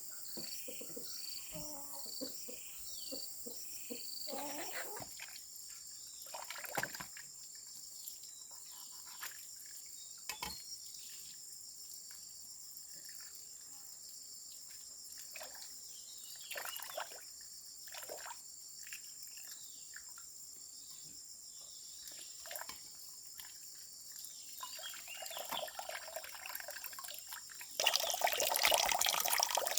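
Scattered rustles and light knocks over a steady high-pitched insect drone; near the end a louder rush of running, splashing water starts suddenly.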